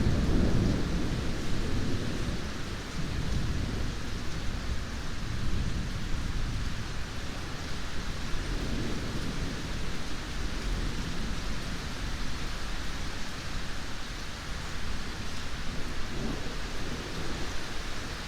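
Steady heavy rain with rolling thunder: a rumble right at the start that fades over a couple of seconds, then fainter rolls about halfway through and again near the end.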